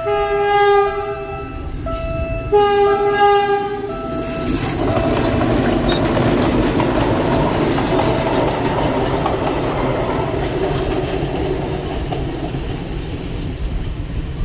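Philippine National Railways diesel train sounding two horn blasts in the first four seconds, then passing close by with a steady rumble and wheel clatter.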